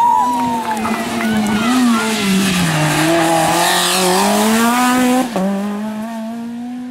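Rally car engine at high revs through a corner, its pitch dropping and then climbing as it pulls away again, with a brief tyre squeal at the start. About five seconds in, the sound cuts abruptly to another engine note that keeps rising.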